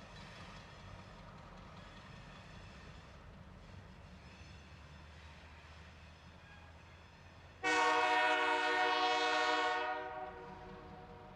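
Freight train rolling with a low, steady rumble, then a diesel locomotive's air horn sounds once, a single blast of about two seconds that starts suddenly about two-thirds of the way in and then fades.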